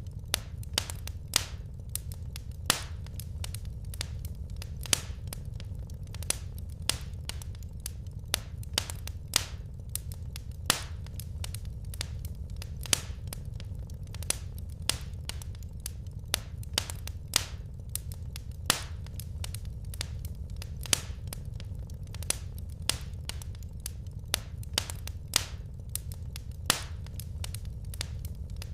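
Wood fire crackling in a fireplace: sharp, irregular pops and snaps, a couple of louder ones every second or so, over a steady low rumble.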